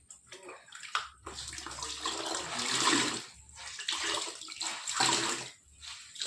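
Floodwater splashing and sloshing in several bursts of a second or two, with short breaks between.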